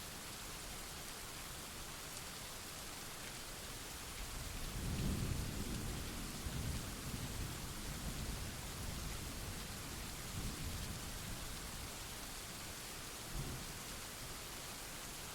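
Steady rain hissing, with a roll of thunder that builds about a third of the way in, rumbles on in waves for several seconds, and gives one last short rumble near the end.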